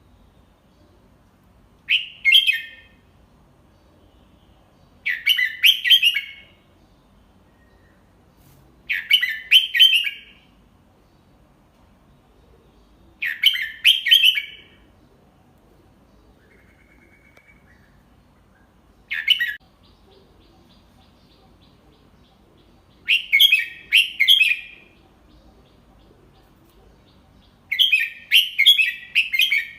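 Red-whiskered bulbul singing short phrases of a few quick, clear notes, one phrase about every four seconds. It is a slow, clear teaching song of the kind played to young bulbuls for them to copy.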